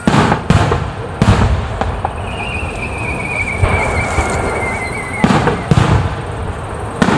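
Fireworks shells bursting in sharp bangs, three in the first second and a half and three more from about five seconds in. Between them a long whistle slowly falls in pitch.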